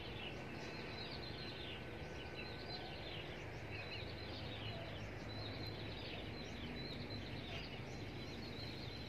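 Many small birds chirping, with short falling calls repeating throughout, over a steady outdoor background hum.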